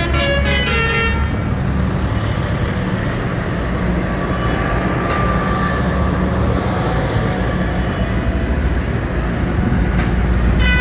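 Diesel engines of parading tractors and lorries running in a steady low rumble. Horn tooting sounds in the first second and starts again at the very end.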